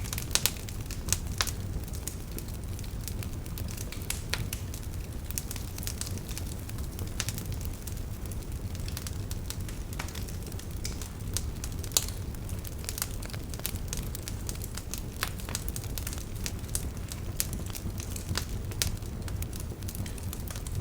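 Campfire crackling, with irregular sharp pops and snaps of burning wood, the loudest about half a second, a second and twelve seconds in. Under it, a river's steady low rush.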